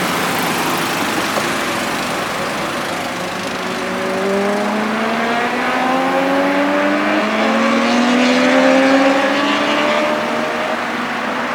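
Sport motorcycle engines accelerating hard past the microphone, the pitch climbing steadily through the middle and loudest about eight seconds in, then easing off.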